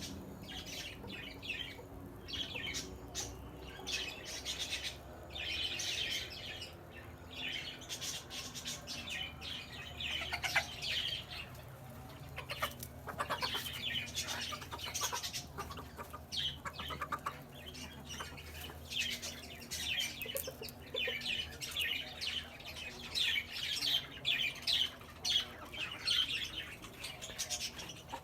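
Birds chirping and calling, many short calls overlapping one after another, over a faint steady low background hum.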